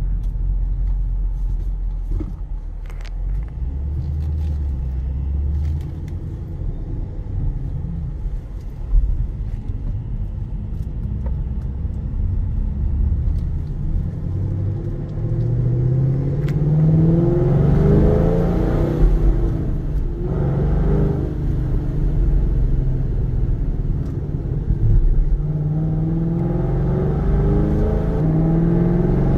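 Procharged 2010 Chevrolet Camaro SS's 6.2-litre V8 through long-tube headers and a Corsa exhaust, driving at low revs, then accelerating with the engine note climbing in pitch around the middle and again near the end.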